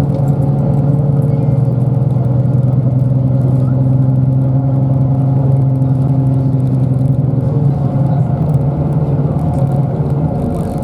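Route bus engine running steadily under way with road noise, heard from inside the passenger cabin.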